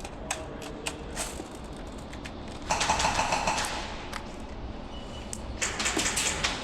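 Airsoft guns firing: a few single shots early on, then two rapid full-auto bursts, about three seconds in and near the end.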